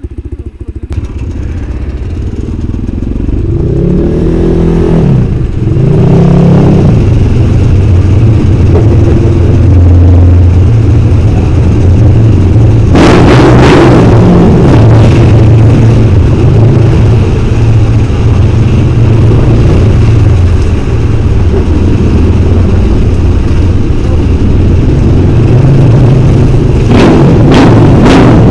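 Engine of a snow-going vehicle being ridden, revving up over the first few seconds and then running hard and steady, with two louder rushes of noise about halfway through and near the end.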